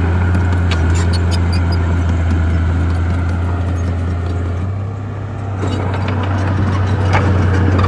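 Bulldozer's diesel engine running steadily under a low drone, with scattered metallic clanks and squeaks from its crawler tracks. The engine drops back briefly about five seconds in, then picks up again.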